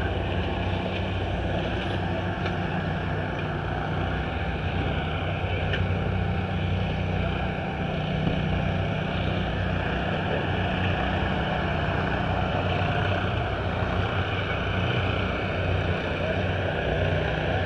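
A steady engine drone at an unchanging speed: a low hum over the general noise of a busy pit area.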